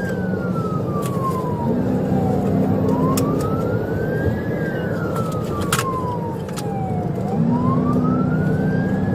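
Police car siren in its slow wail, rising and falling twice, each sweep taking about four and a half seconds, over steady engine and road noise from a cruiser at highway speed.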